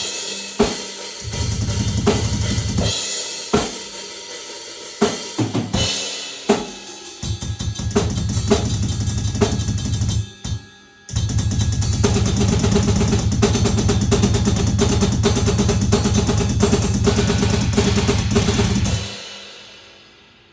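Drum kit being played: separate hits on drums and cymbals, then from about halfway a long, very fast roll with heavy bass drum under a wash of cymbals. It stops near the end and the cymbals ring away.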